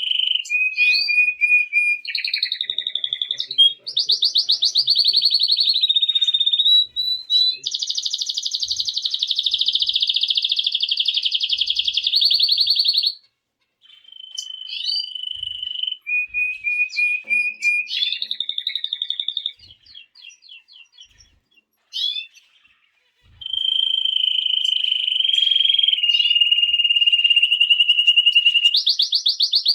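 Canary singing: long runs of rapid repeated trills and rolling phrases, each phrase at a different pitch. There is a short break about halfway through, and a few seconds later a quieter spell of scattered notes before the song picks up again.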